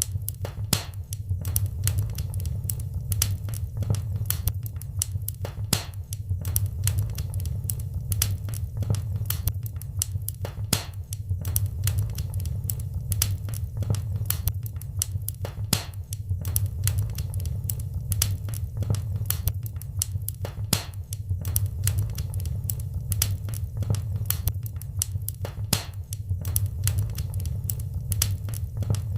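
Wood fire in a fireplace crackling: frequent sharp, irregular pops and snaps over a steady low rumble.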